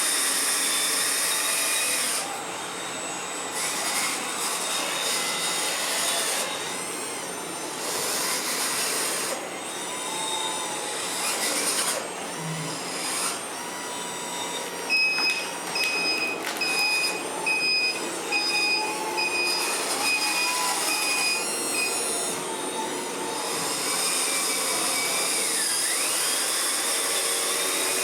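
Small electric motors and gearboxes of radio-controlled model trucks and construction machines whining and hissing as they are driven. In the second half a pulsed electronic beep runs for about seven seconds.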